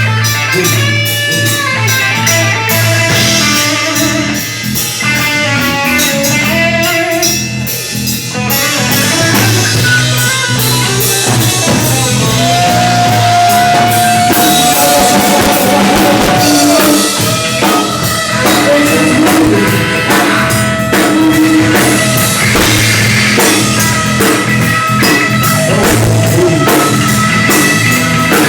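Rock and roll band playing a boogie, with drum kit and guitar keeping a steady beat and one long held note around the middle.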